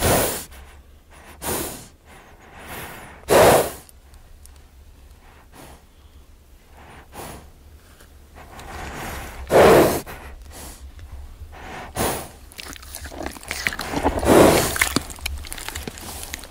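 A horse blowing and snorting through its nostrils: about six short breathy bursts a few seconds apart, the loudest about three and a half and ten seconds in.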